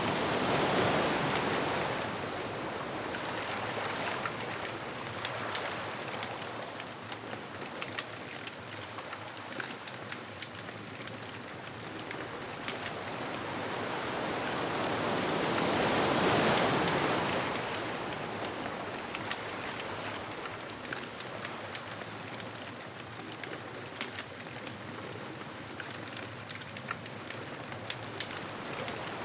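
Ocean waves washing up on a beach, the surf swelling loudly twice, near the start and about halfway through, over a steady wash, with a bonfire's fine crackling throughout.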